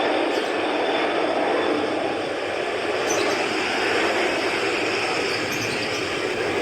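Airliner engines running: a loud, steady rushing noise with no clear pitch.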